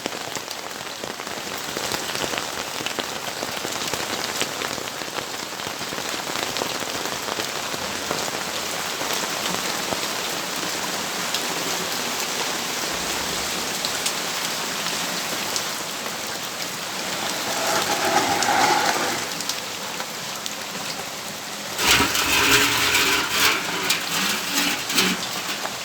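Steady rain falling, with many drops ticking on surfaces close by. A louder swell comes about three-quarters of the way through, and a louder, rougher sound with some pitch to it breaks in for about three seconds near the end.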